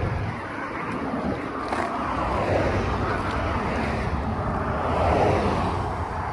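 Steady vehicle noise: a motor vehicle running with a continuous low rumble, with no sharp events.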